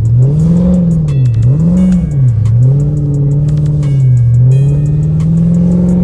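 Dodge Charger SRT engine revving hard, its pitch rising and falling twice in quick succession, then holding higher before dipping and climbing again near the end. The revs are the car's engine as it slides on snow.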